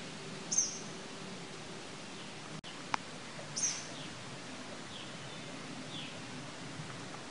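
Wild birds chirping: a few short, sharp, downward-sliding chirps a few seconds apart, with fainter calls between them, over a steady background noise.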